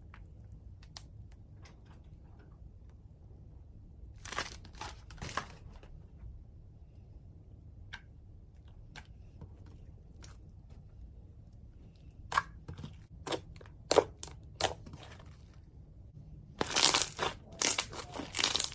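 Slime being squeezed and pressed by hand, giving short sharp clicks and noisy bursts: a small group of them, then a run of separate clicks, and a dense, louder cluster near the end.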